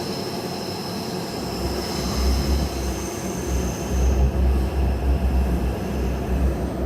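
Taipei Metro Zhonghe–Xinlu line train running. A high wheel squeal fades out about four seconds in, while a deep rumble builds from about a second and a half in.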